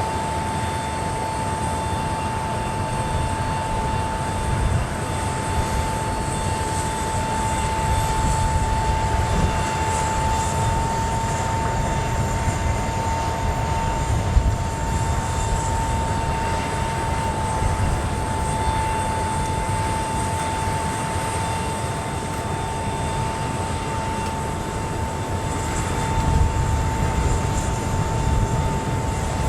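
The C-17 Globemaster III's four Pratt & Whitney F117 turbofan engines running steadily, a constant high whine over a low rumble.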